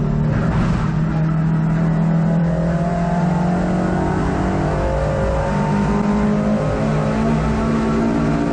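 Racing hot hatch's engine heard from inside the cabin under hard driving, loud and continuous, its note shifting up and down with throttle and gear changes, over road and wind noise.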